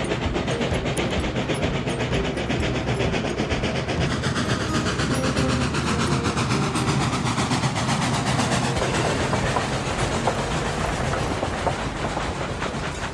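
Steam train running: a dense, steady rush of sound with fast, fine clatter running through it, easing slightly near the end.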